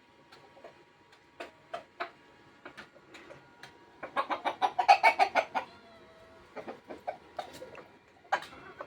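Rooster clucking while it pecks at food, with scattered sharp clicks of its beak. About four seconds in comes a rapid, louder run of clucks lasting over a second, then a brief held note.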